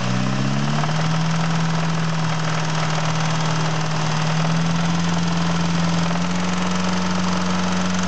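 Engine running with a knock that the owner is asking about, its pitch rising in the first second and then holding steady.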